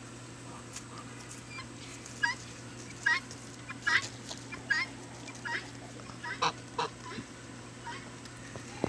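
Domestic fowl calling while they feed: a string of short calls, roughly one a second, over a steady low hum.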